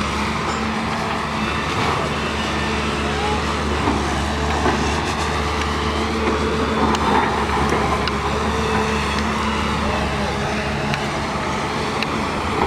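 A heavy engine runs steadily with a constant low hum, amid street noise and faint voices.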